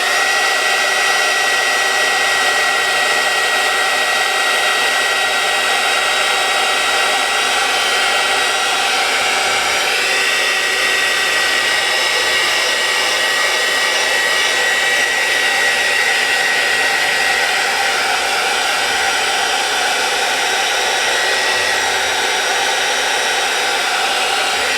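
Craft heat tool blowing steadily to dry wet watercolor paint: a constant rush of air with a steady high whine from its fan.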